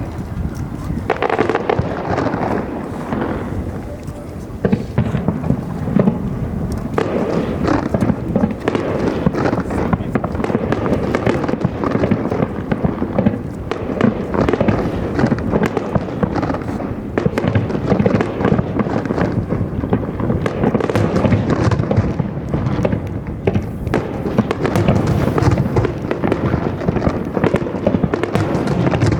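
Aerial firework shells bursting in quick succession, dense crackling pops over a continuous low rumble of booms. Some are senrinka shells, which scatter into many small crackling bursts.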